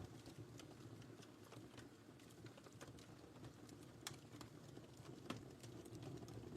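Quiet wood fire burning in a fireplace: a steady low rumble of flames with frequent small crackles and snaps, one sharper pop about five seconds in.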